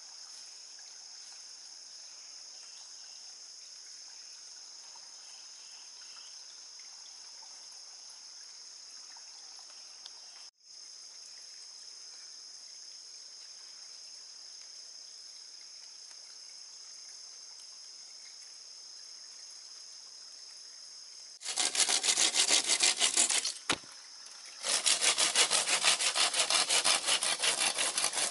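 Steady high-pitched insect buzz, then about two-thirds of the way in, loud sawing through wood starts, stops briefly, and resumes.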